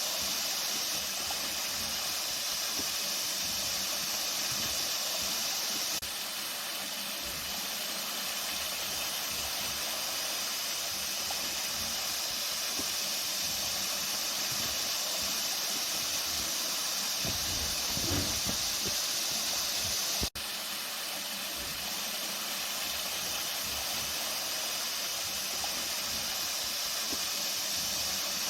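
Flowing water, running with a steady rushing hiss. A brief low rumble comes about eighteen seconds in, and there is a momentary break in the sound just after twenty seconds.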